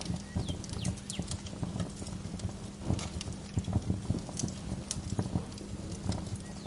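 Wood fire crackling in a fireplace: irregular sharp pops and snaps over a low steady rumble. A few short, falling bird chirps are heard now and then.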